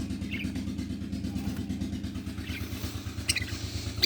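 A small engine running steadily with a fast, even pulse, with a few short, high chirps from budgerigars over it.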